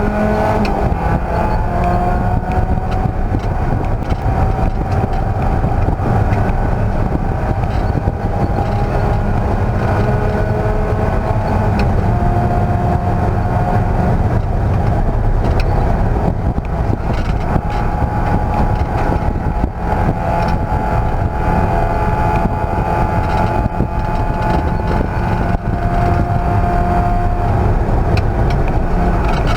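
Race car engine running hard on a road course, its pitch rising and falling slowly with throttle and gear changes, over a constant low rumble of road and wind noise.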